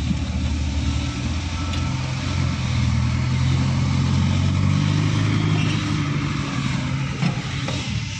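Dump truck engine running steadily, its pitch rising a little about a second in and then holding.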